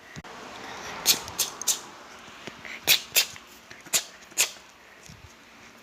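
A person making short, sharp clicking sounds in quick runs of two and three to coax a cat down.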